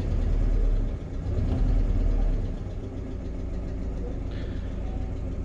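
UMZ-4216 Evotech 2.7 four-cylinder petrol engine running, revved up twice in the first couple of seconds and then settling back to idle. A hydraulic valve lifter is tapping, a sign of one faulty lifter.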